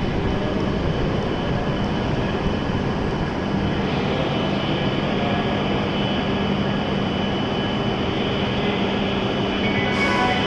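Steady hum and whir of a stationary E7-series Shinkansen standing at the platform, with a constant low drone under an even rush of noise. A melody starts near the end.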